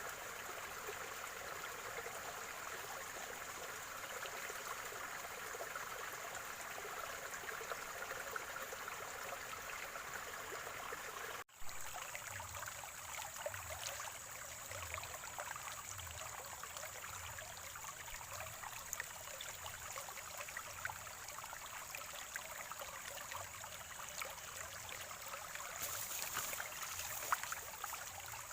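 Small stream or spring water trickling and gurgling steadily, with a thin steady high-pitched whine above it. About eleven seconds in, the sound drops out for an instant and resumes with a different water texture, with soft low gurgles about once a second.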